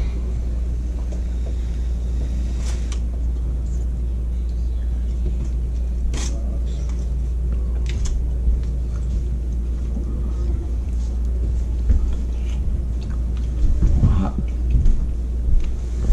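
A steady low rumble under a man chewing a forkful of fish, with a few faint clicks of a fork against the plate.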